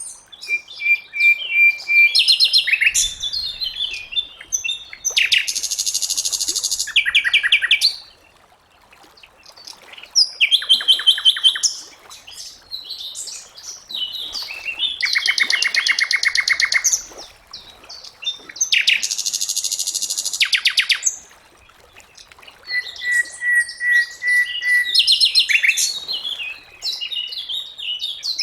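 Sikatan londo (a flycatcher kept as a songbird in Indonesia) singing in a run of phrases with short pauses between them: several fast, rattling trills and a couple of long, steady high whistles.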